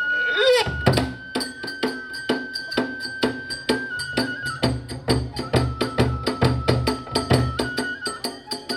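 Kagura ensemble music: a transverse bamboo flute holding long high notes that step in pitch, over a quick steady beat of drum strokes and ringing metal hand cymbals.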